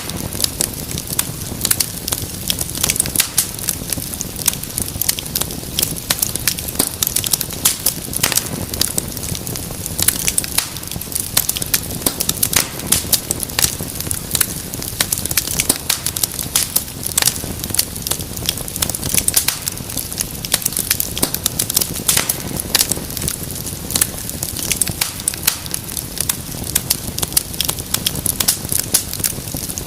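Fire in a fireplace crackling: a steady stream of irregular sharp pops and snaps over a soft continuous hiss and low rumble of the flames.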